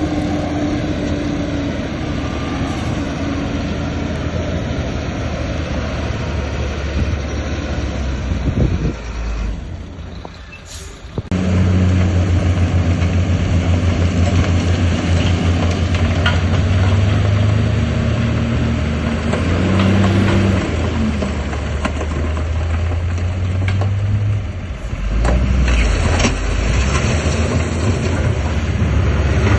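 Heavy diesel earthmoving machinery running under load, a steady engine hum whose pitch and strength shift as the machine works. The sound drops away for about two seconds around ten seconds in, then comes back stronger.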